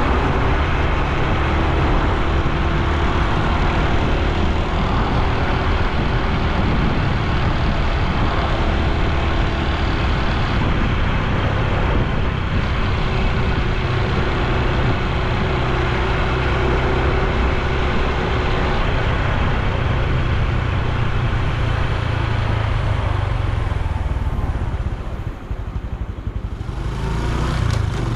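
Honda Super Cub C125's 125 cc single-cylinder four-stroke engine running steadily while riding. It eases off briefly about 25 seconds in, then picks up again near the end.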